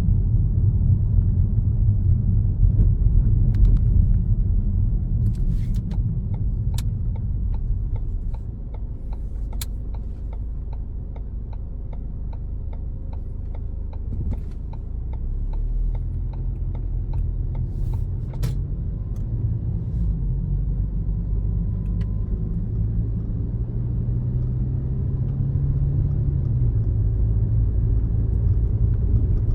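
A car driving on a road: steady low rumble of engine and tyres. A run of evenly spaced faint ticks sounds for about fifteen seconds in the first half, and the engine note rises a little in the second half as the car picks up speed.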